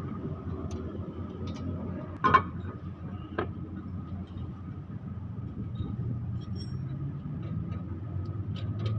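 A machine running steadily, with a low hum and a steady higher whine, while the brake disc is resurfaced. Two sharp knocks come through it, a loud one a couple of seconds in and a smaller one about a second later.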